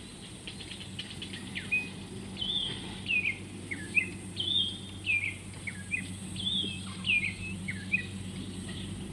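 A songbird singing a run of short whistled notes, most of them sliding down in pitch, repeated over several seconds. Underneath is a steady low hum and a faint, steady high insect-like buzz.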